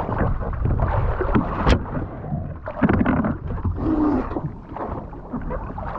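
Seawater sloshing and splashing around a swimmer beside a capsized kayak, uneven and continuous, with a single sharp knock about two seconds in.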